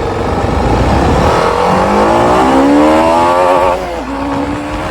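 BMW G310 RR's single-cylinder engine accelerating hard in sport mode. Its note climbs steadily through a gear, drops sharply at an upshift just before the end, then starts climbing again.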